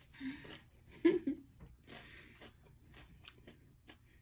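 Close-up chewing and crunching of Doritos tortilla-chip nachos: a breath, a brief sound from the voice about a second in, then a run of small crisp crunches.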